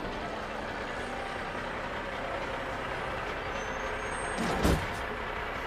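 Semi truck's engine running steadily as it rolls to a stop, with a short, loud burst of air-brake noise near the end.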